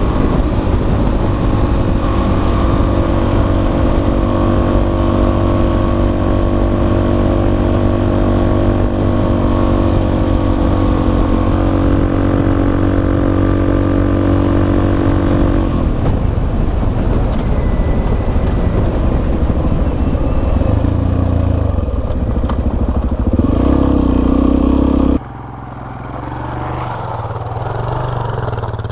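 Suzuki DR-Z400S single-cylinder four-stroke engine running while the bike is ridden up a trail, a steady note that changes about halfway through and drops suddenly in loudness near the end.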